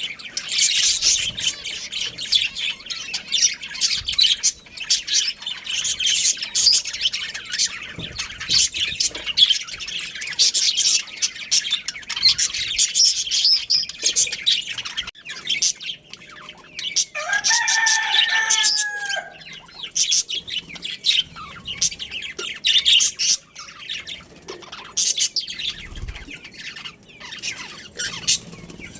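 Budgerigars chattering and warbling, a dense run of rapid high chirps. About two-thirds of the way in, another bird gives one longer, lower call lasting about two seconds.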